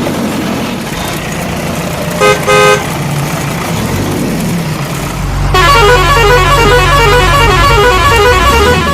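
A vehicle engine runs steadily, with two short horn honks about two seconds in. From about halfway, a bright repeating tune plays over a low steady hum.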